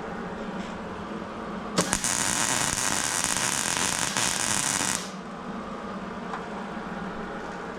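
A sharp click, then a loud, even hiss lasting about three seconds that cuts off suddenly, over a steady low hum.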